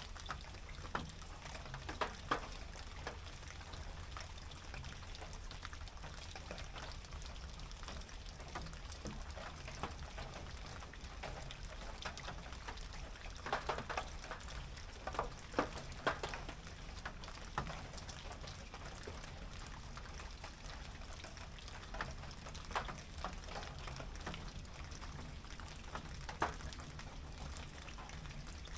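Rain on a tin roof: a steady patter with louder single drops striking the metal at irregular moments, bunched around a couple of seconds in, in the middle, and past two-thirds through.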